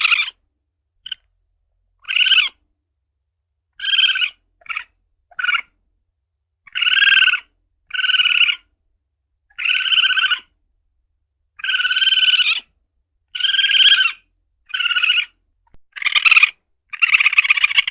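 Common palm civet (luwak) calling: a series of short, harsh, pitched calls of about half a second to a second each, repeated roughly once a second with brief silences between.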